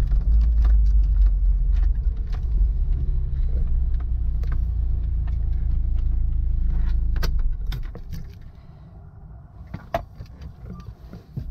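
UAZ Patriot's 2.7-litre ZMZ-409 petrol engine running, heard from inside the cabin, with light clicks and rattles. About seven and a half seconds in the rumble stops as the engine is switched off at the pump, leaving scattered clicks and a sharper knock or two.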